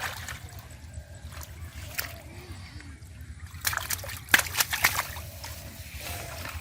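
Water splashing and sloshing as hands work through shallow river water and floating water hyacinth, with a quick run of sharper splashes a little under four seconds in.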